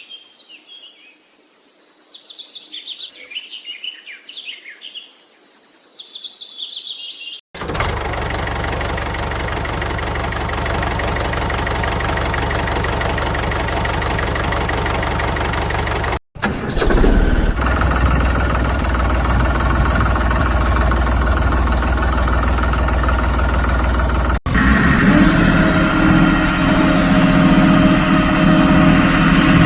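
Birds chirping for about seven seconds. After an abrupt cut comes a steady engine running. Two more abrupt cuts, about halfway through and near the end, each switch to a different steady engine sound, the last with a strong low hum.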